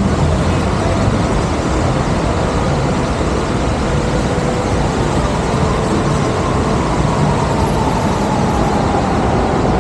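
Bellagio fountain's water jets and falling spray making a loud, steady rushing noise, with a faint tone sliding slowly downward near the end.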